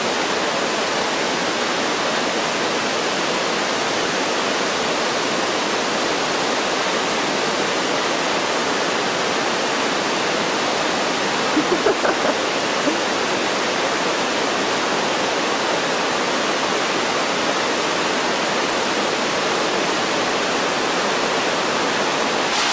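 Steady rush of a mountain stream's water pouring over rocks, even and unbroken, with a few faint short sounds about halfway through.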